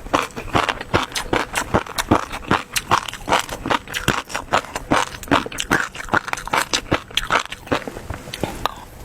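Close-miked eating sounds: a person chewing and smacking on food, with a quick, irregular run of short mouth clicks, a few a second.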